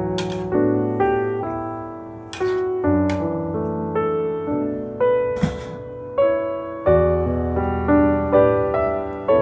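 Background solo piano music with evenly paced notes. Three short scrapes of a metal spatula against a steel wok cut through it, about a third of a second, two and a half seconds and five and a half seconds in.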